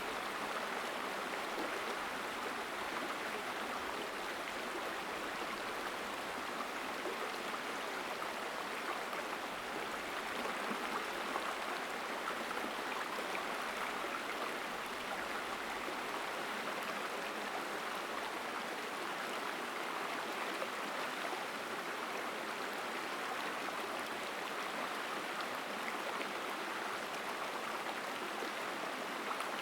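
Forest mountain stream flowing strongly: a steady, even rush of water with little low rumble.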